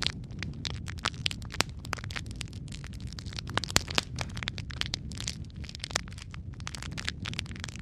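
Wood fire crackling in a fireplace: irregular sharp pops and snaps over a steady low rumble of the flames, with a louder pop a little before the middle.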